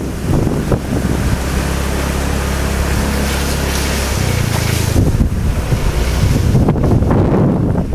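Wind buffeting the microphone over the rush of floodwater, with a low engine hum from about a second in until about four seconds in.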